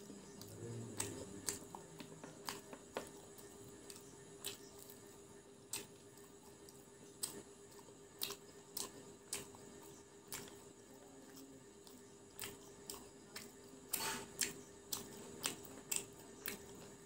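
Close-miked chewing of crispy fried chicken pakora: irregular sharp crunches and wet mouth clicks, with a quick flurry near the end, over a faint steady hum.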